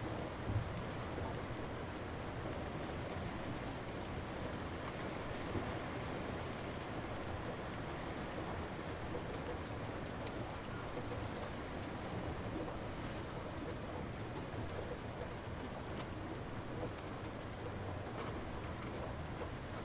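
Steady light rain falling, an even patter with scattered single drops ticking.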